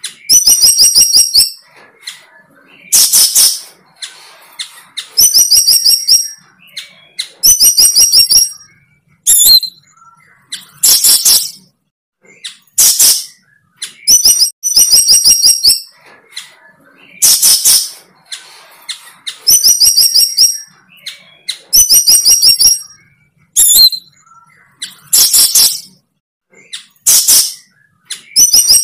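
A bird calling over and over, very close and loud, about one phrase every two seconds. Each phrase is a quick run of high, sharp notes, alternating with a short harsher chirp.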